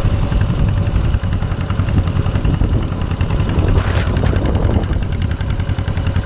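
Small farm tractor's engine running close by, a loud, steady rapid beat of firing pulses.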